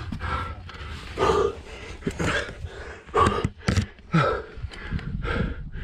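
A climber breathing hard and grunting with effort in short bursts, about one a second, while squeezing up a narrow rock chimney.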